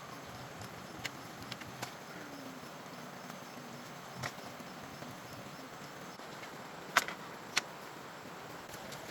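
A few short sharp knocks over a steady background hiss, the loudest two near the end, a little over half a second apart.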